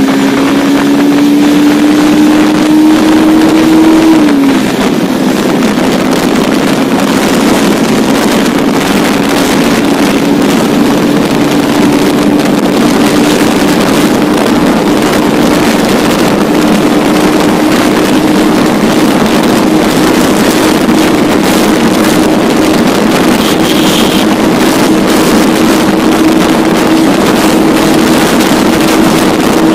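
Bajaj Pulsar 180F's single-cylinder engine pulling hard on a top speed run, with heavy wind rushing over the microphone. The engine note climbs, drops at an upshift about four seconds in, then rises slowly and steadily as the bike nears its top speed.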